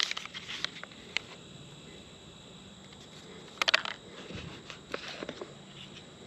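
Scattered short clicks and crinkles of a spoon working in a foil backpack-meal pouch, a few near the start and a brief rattly cluster about three and a half seconds in. A faint steady high insect drone runs underneath.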